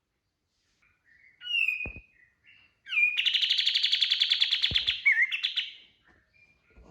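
A kapas tembak songbird singing: a few short whistled notes, then about three seconds in a loud, fast, evenly pulsed trill lasting about two seconds (the rapid-fire 'tembakan' burst), ending in a few more notes.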